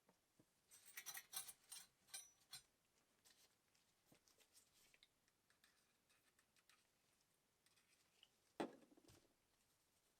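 Faint workbench handling noises: a flurry of small clicks and scrapes, then scattered ticks, and one sharper knock a little before the end.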